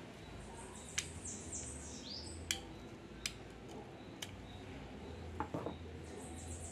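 A small bird twittering in quick runs of high, falling chirps, about a second in and again near the end. A few sharp light clicks and a steady low hum lie under it.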